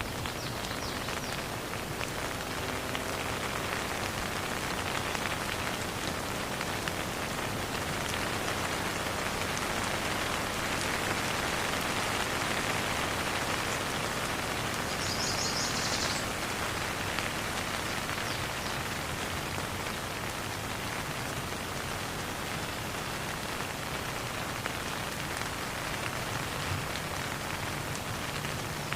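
Steady rain falling on hard surfaces, an even hiss of many drops with no thunder. It swells slightly about a third of the way in. A brief high chirping sound comes about halfway through.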